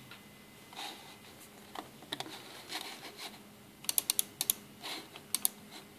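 Scattered clicking of computer keys, with a quick run of about four sharp clicks about four seconds in and two more a moment later.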